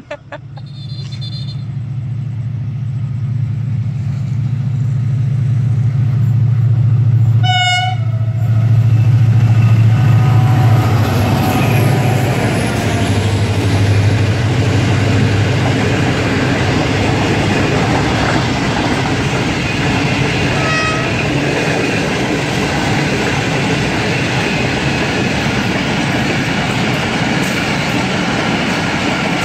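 Pakistan Railways HGMU-30 diesel-electric locomotive hauling an express passenger train passes at speed. Its engine drone builds and dominates the first half, with a short horn blast about a quarter of the way in. Then the passenger coaches roll past with a steady rumble and clatter, and a second, fainter horn toot comes about two-thirds in.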